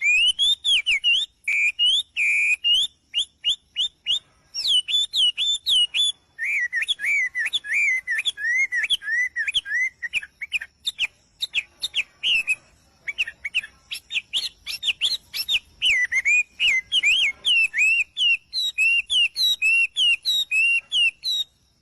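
A parrot chirping and whistling in a fast, near-continuous string of short notes that swoop up and down in pitch, broken only by a few brief gaps.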